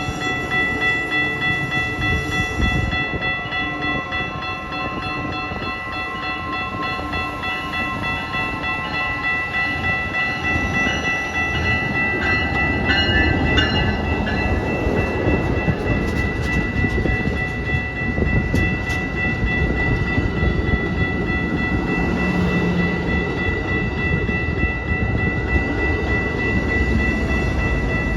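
Amtrak Hiawatha passenger train running, a steady high tone held over its rumble.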